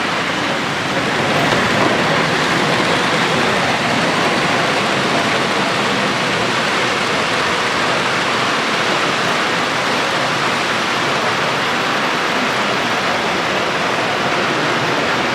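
Steady, even din of a crowded exhibition hall: many voices and room noise blended into one continuous wash.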